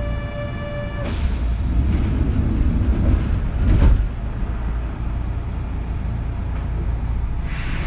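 Interior running sound of a Kintetsu 3200 series electric train, recorded in a motor car, with a steady low rumble. A brief steady tone stops with a sharp hiss about a second in. The rumble swells to a peak around four seconds, and another hiss comes near the end.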